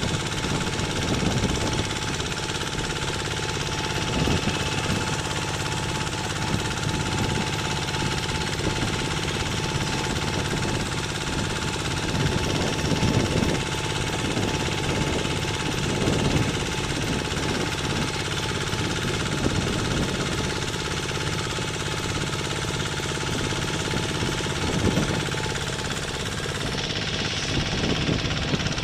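Kubota RT single-cylinder diesel engine of a walking tractor running under way with a rapid, steady knocking beat, swelling louder every few seconds.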